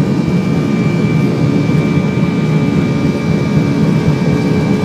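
Il-96 airliner's four Aviadvigatel PS-90 turbofan engines running steadily: a loud, even rumble with a steady high whine over it.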